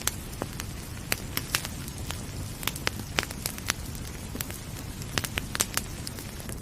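Wood fire in a fireplace crackling: many sharp, irregular pops over a steady low rumble.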